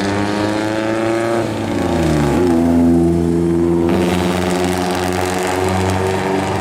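Classic car engine accelerating hard. Its note climbs, drops sharply about two seconds in, then holds and climbs slowly again.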